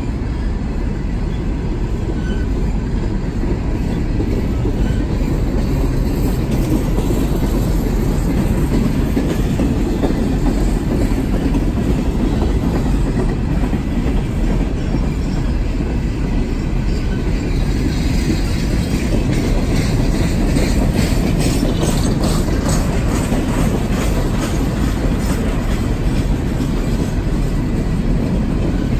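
Empty Norfolk Southern coal hopper cars rolling past close by: a steady rumble with the clatter of steel wheels on the rails. The clicking grows sharper for several seconds past the middle.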